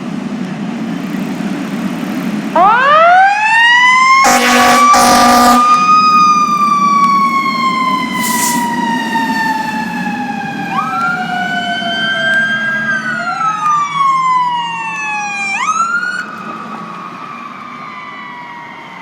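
Fire engine siren winding up from low to high and then slowly falling in pitch, with two short air-horn blasts soon after it peaks. A second siren tone rises and falls over it later on, with a quick upward sweep near the end. The truck's engine rumbles underneath.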